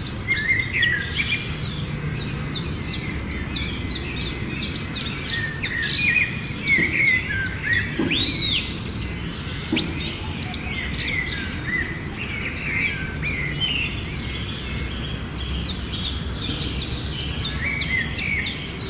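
Myna birds calling in a dense, fast run of varied chirps and whistles, over a steady low background noise.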